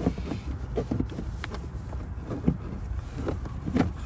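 Footsteps and scattered light knocks and taps, irregularly spaced, as the intake's heat shield is carried and handled, over a steady low rumble.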